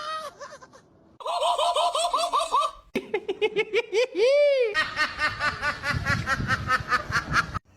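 Hearty laughter in quick, repeated ha-ha bursts, several a second, in two long bouts. It cuts off abruptly near the end.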